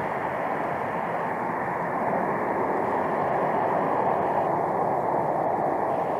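Jet airliner engine noise, a steady rushing sound that holds its level throughout.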